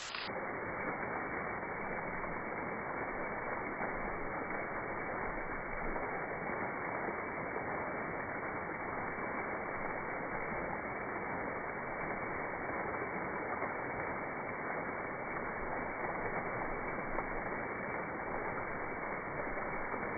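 Waterfall: a steady, unbroken rush of falling water with no high end, so it sounds dull and muffled.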